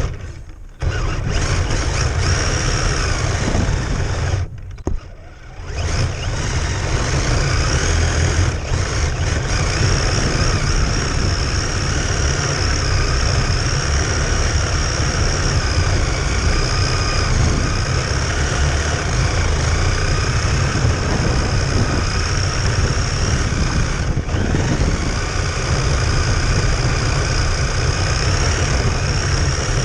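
Radio-controlled car's motor running steadily, its high whine wavering up and down in pitch over a constant low rumble. The sound drops out briefly twice in the first few seconds.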